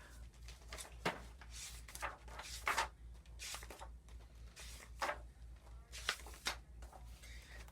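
A hardcover book being handled and opened: paper and cover rustling and sliding in a run of short swishes, with a sharp tap about a second in.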